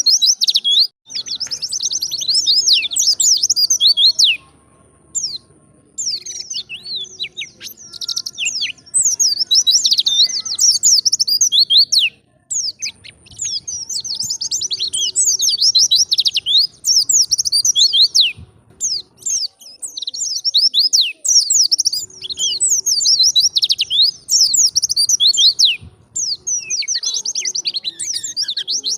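White-eye (pleci) singing: long phrases of rapid, high twittering chirps, broken by short pauses every several seconds.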